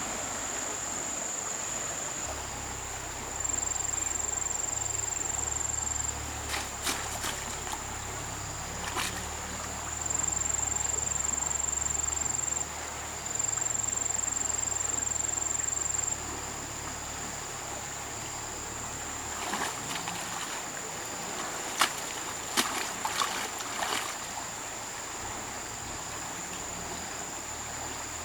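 Insects shrilling in a steady high whine that swells in spells of a few seconds. A low hum runs underneath for the first two thirds, and there are a few sharp clicks, mostly in two clusters.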